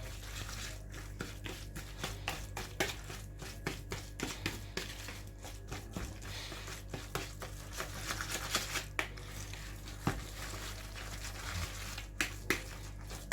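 A utensil stirring and tapping in a bowl of cheesecake filling: many irregular small clicks and scrapes over a steady low hum.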